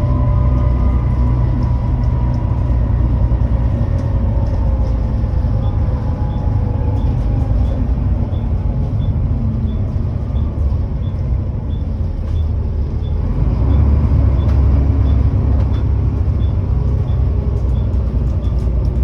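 Volvo B7TL bus's straight-six diesel engine with a blown exhaust, heard from on board: a loud, low rumble. A whine falls in pitch as the bus slows, then the engine gets louder about two-thirds of the way through as it pulls away. A faint regular ticking comes about one and a half times a second.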